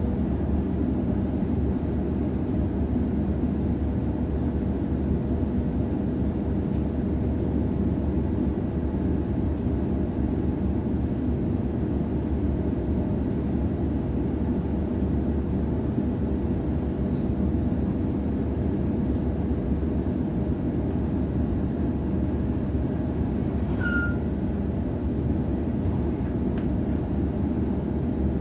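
Cabin noise of a Sydney Trains Waratah electric train running at speed: a steady rumble of wheels on rails with a steady tone running under it. A brief high squeak comes once, near the end.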